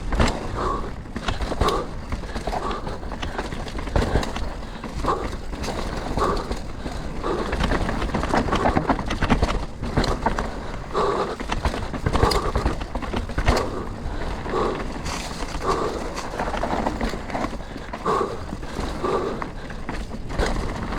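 Full-suspension enduro mountain bike riding down a rough trail: tyres rumbling over dirt and rocks, with frequent sharp knocks and rattles from the chain and frame as it hits bumps.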